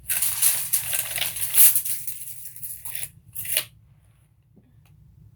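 Steel blade of a 16-foot tape measure running through its case with a rattly hiss for about three seconds, then a short sharp sound about three and a half seconds in.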